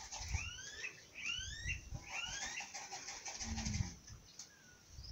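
Birds chirping: short notes that rise quickly in pitch, repeated in little runs, over some low rumbling thumps.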